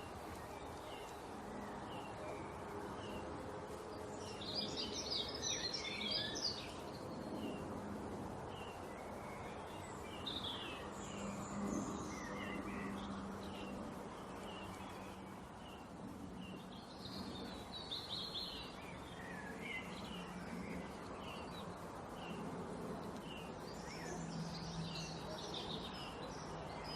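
Small songbirds chirping: a steady scatter of short, high chirps, with busier bursts of twittering about five, eleven, eighteen and twenty-five seconds in, over a steady low background hum.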